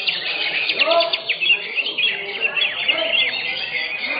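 Greater green leafbird (cucak hijau) singing in a competition: a fast, unbroken stream of high chirps and trills, with a few lower whistled glides about a second in.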